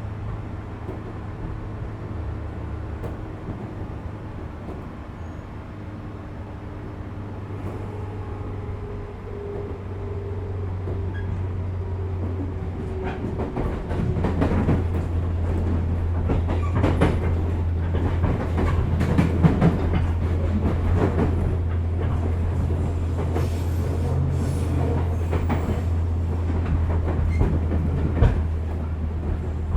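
415 series electric multiple unit running, heard inside its motor car under the pantograph: steady low motor and gear hum with a faint whine, growing louder about a third of the way in, with wheels clattering over rail joints.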